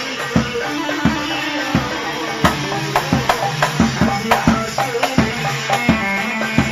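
Iraqi popular band music: a melodic line of held, stepping notes over a quick, steady beat of drums and hand percussion, with no singing.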